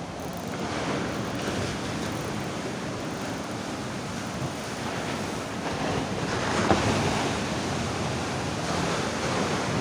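Sea waves breaking and washing on the shore, a steady rush that swells louder about six to seven seconds in.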